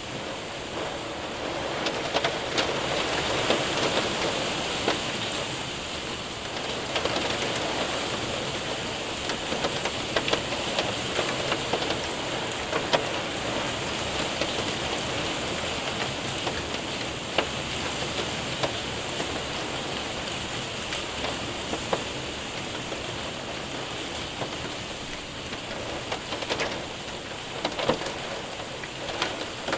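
Rain and hail hitting a window and roof: a steady wash of rain with many sharp, irregular ticks of hailstones striking.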